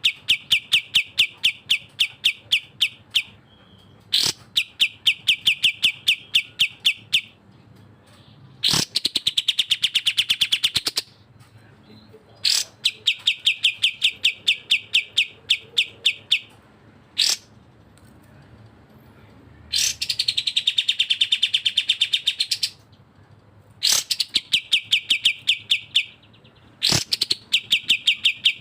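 Bulbul calls for bird-song training, cucak jenggot (grey-cheeked bulbul) and kapas tembak: runs of rapid sharp notes, about six a second, lasting a few seconds each, alternate with harsher, rattling bursts about two to three seconds long, with a few single sharp notes between.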